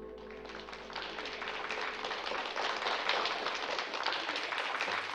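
Audience applauding, building up about a second in, while a ringing note dies away under it in the first two seconds.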